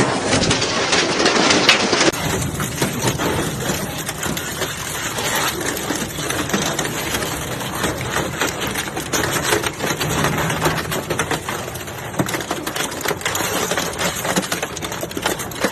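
Industrial metal shredder crunching through scrap metal: a dense, continuous clatter of metal impacts and grinding over a low rumble.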